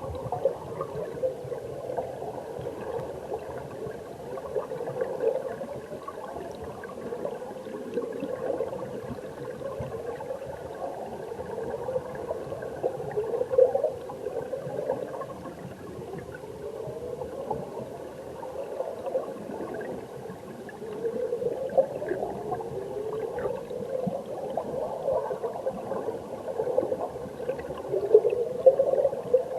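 Mountain stream heard underwater: a continuous bubbling gurgle of water running over rocks, full of short rising bubble chirps, with louder surges now and then.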